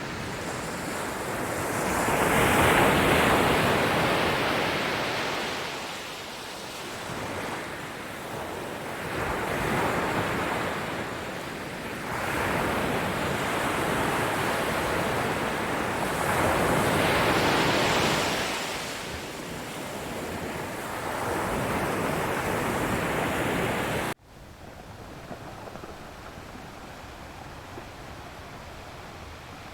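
Ocean surf: waves rolling in and washing back, swelling and fading every few seconds. About 24 seconds in it cuts off suddenly to a quieter, steady hiss.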